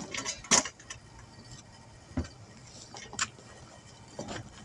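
Small metal wheel weights being handled during tire balancing: a few separate sharp metallic clicks and clinks, the loudest about half a second in.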